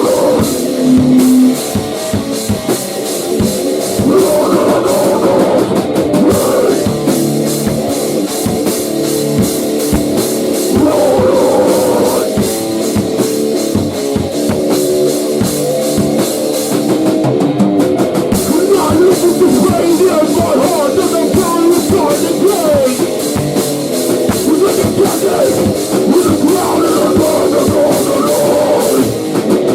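Grunge/hardcore rock band playing loudly: a drum kit hit in a fast, busy pattern under electric guitar.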